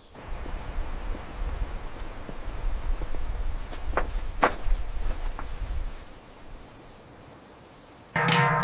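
A cricket trilling steadily, a continuous high, finely pulsing chirr, over a low rumble, with a few sharp clicks about four to five seconds in. Music with drums cuts in near the end.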